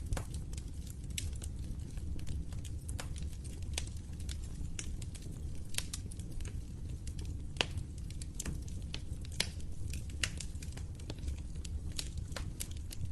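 Wood fire crackling in a fireplace: irregular sharp pops and snaps, a few louder ones about two-thirds of the way in, over a steady low rumble of burning.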